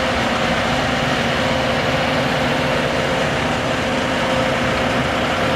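Large farm tractor's engine running steadily as it rolls past in low gear.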